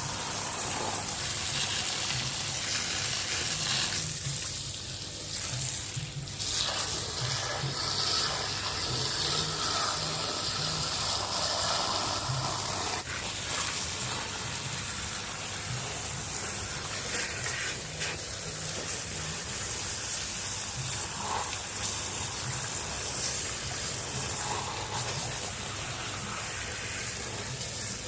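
Water spraying steadily from a car-wash pressure washer, washing mud off a 1/10-scale Scania RC truck, with a low hum underneath.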